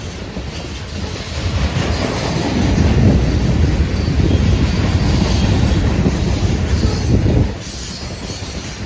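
A train passing close by, its wheels running on the rails with a heavy rumble that grows louder about two seconds in and drops off suddenly about seven and a half seconds in.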